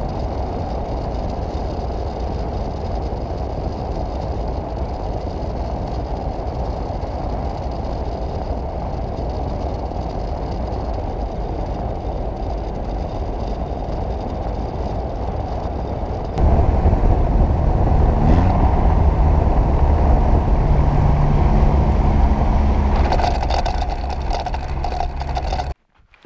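Steady engine and wind noise of a light bush plane heard in flight. About two-thirds of the way through it cuts abruptly to a louder, deeper rumble with a brief rising whine, then drops out just before the end.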